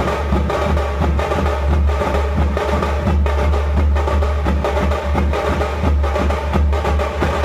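Tamil festival folk drum troupe playing a fast, dense rhythm, with steady pitched tones sounding above the drums.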